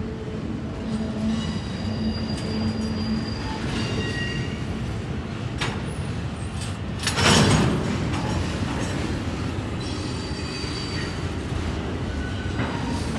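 Double-stack intermodal well cars rolling slowly past with a steady low rumble and intermittent high-pitched wheel squeal. About seven seconds in, a loud, short burst of noise lasting under a second is the loudest moment.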